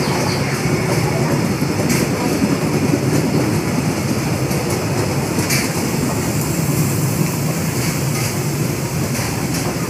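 Indian Railways passenger coaches rolling past at speed: a steady rumble of wheels on rail, with a few sharp clacks.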